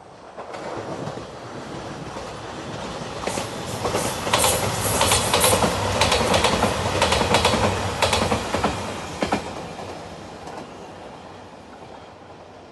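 JR 2700 series diesel train passing, its wheels clicking over the rail joints; the sound builds, peaks in the middle with a dense run of clicks, then fades away.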